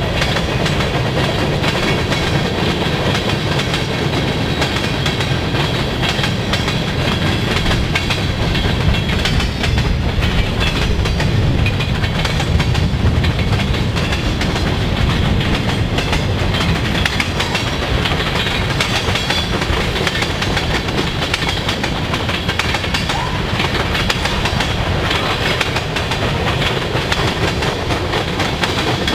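Freight train's cars rolling steadily past: a continuous rumble with the wheels clicking over the rail joints.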